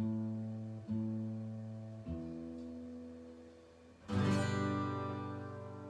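Acoustic guitar played between songs: the same low note is plucked three times, each left to ring out, then a different note, then a full chord strummed about four seconds in.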